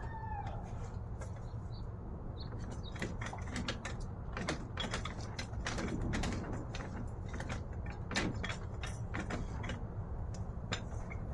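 Irregular metallic clicks, knocks and creaks of hand tools and a jack working at a 2012 Ford Focus's engine mount, over a steady low hum.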